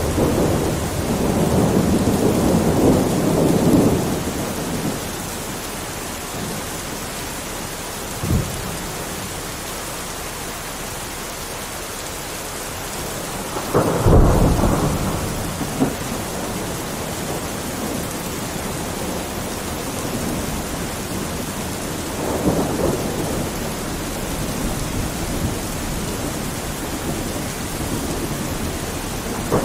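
Steady rain with thunder: a rolling rumble in the first few seconds, a short crack about 8 seconds in, a louder clap about 14 seconds in, and another low rumble later on.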